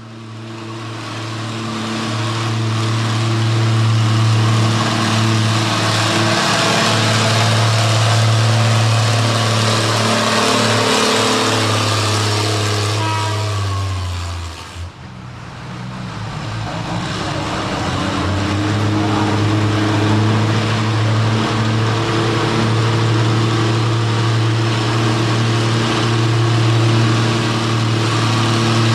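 Farm tractor engines running hard under load in a tractor pull, a loud steady low drone. About fourteen seconds in the engine note sags and drops away, then a second run builds back up to full power.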